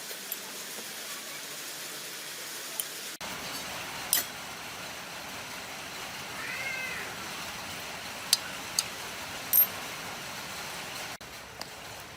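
A cat meowing once, a short call that rises and falls, over a steady hiss with a few sharp clinks of metal parts being handled.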